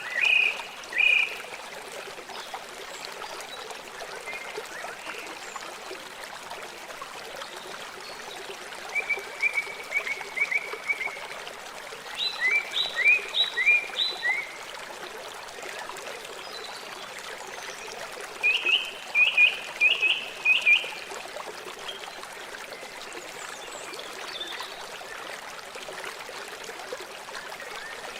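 River water flowing steadily. Over it a bird chirps in short runs of quick repeated notes, once near the start and three more times in the middle stretch.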